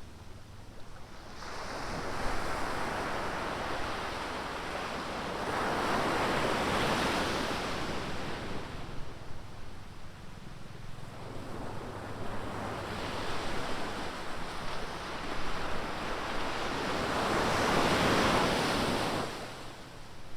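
Ocean surf breaking on a beach: two waves in turn, each swelling up over a few seconds, washing loudly and then fading. A steady low rumble runs underneath.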